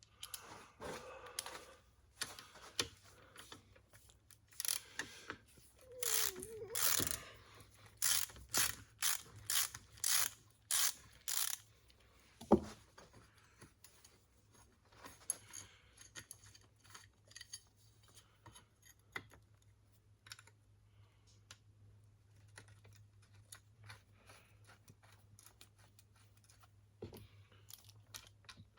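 Hand ratchet wrench clicking in runs of quick strokes as a bolt is turned, with quieter scattered clinks of tools and metal parts between runs. A faint steady low hum sits underneath.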